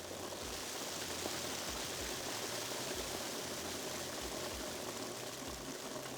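A steady rushing hiss like a long, continuous pour, starting suddenly and running on without a break.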